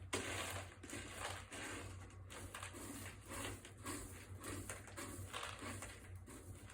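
Cat digging in its litter box, paws raking the litter in a run of short gritty scrapes about twice a second.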